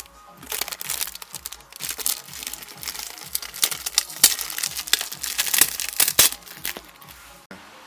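Adhesive tape being torn and peeled out from inside a thin plastic box: a run of irregular crackling and ripping that stops abruptly near the end.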